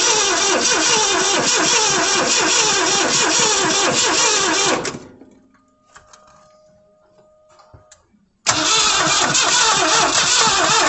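The 1986 Ford F350's 460 V8 being cranked by its starter without catching: one long crank that stops about five seconds in, then a second crank starting near the end. The no-start is caused by a weak battery terminal connection.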